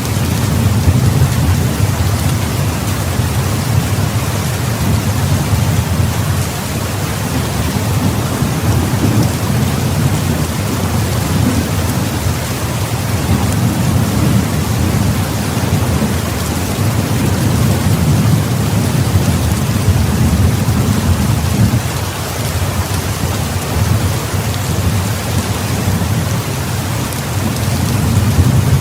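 Heavy rain pouring steadily, with a low rolling rumble of thunder beneath it that swells and eases every few seconds.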